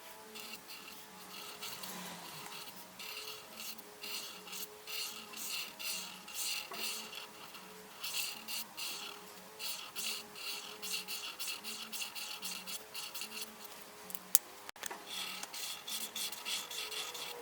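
A coloring tool rubbing on paper in quick back-and-forth scribbling strokes, several a second, while a picture is colored in. There is a single sharp click about fourteen seconds in.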